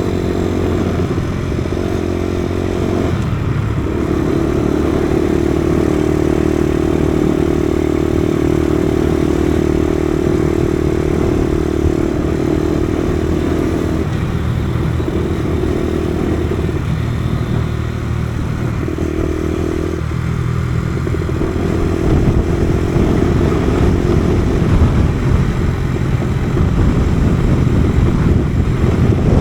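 Kawasaki KSR110's small air-cooled single-cylinder four-stroke engine running under way, its steady note breaking off and picking up again several times as the throttle and gears change. Wind noise on the microphone grows louder over the last part.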